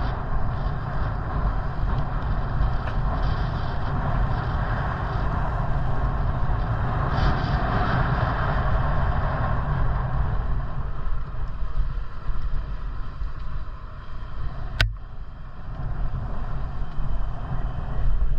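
Wind buffeting the microphone along with rolling noise while riding a bicycle, a steady rumble that eases in the second half. A single sharp click comes about fifteen seconds in.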